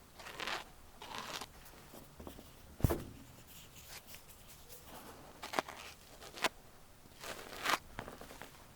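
Ear-cleaning tool scraping and rubbing in an ear, in irregular short scratchy strokes, with one sharp click about three seconds in.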